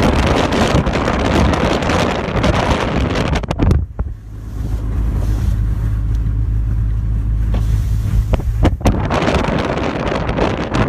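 Strong storm wind blasting the microphone, a loud rushing roar. About four seconds in it turns to a muffled low rumble for roughly five seconds, then the full rush comes back.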